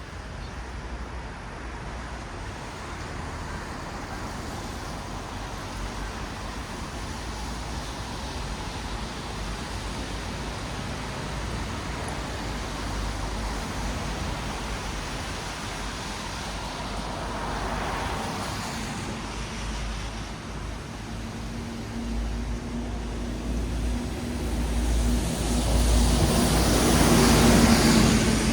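Road traffic on wet asphalt: a steady wash of tyre noise, with one vehicle swelling and passing about two-thirds of the way in. Near the end a louder vehicle with a low, steady engine hum comes up and passes close, the loudest moment.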